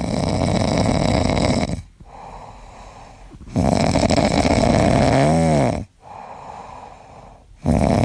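A pet snoring loudly, with long rasping snores about every four seconds and quieter breaths between them. The second snore ends with a brief whistling rise and fall in pitch.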